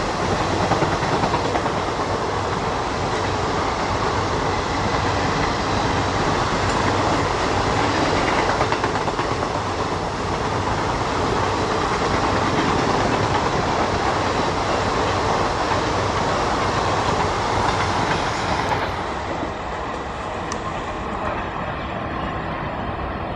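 ICF passenger coaches of an express train running past at speed: a loud, steady rush of wheels on the rails. About nineteen seconds in, the sound drops abruptly to a quieter rumble as the train recedes.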